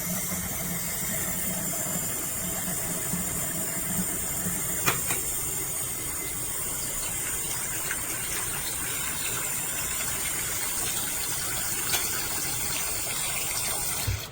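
Water running steadily from a waterfall-spout bathroom faucet into a sink basin, splashing, with a couple of light knocks; it stops abruptly near the end.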